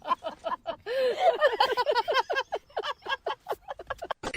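A person's voice, talking rapidly in quick, unclear syllables that break off abruptly near the end.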